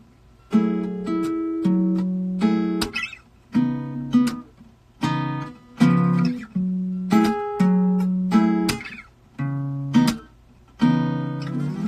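Acoustic guitar strumming a chord progression, each chord struck and left to ring, with short breaks between the groups of strums.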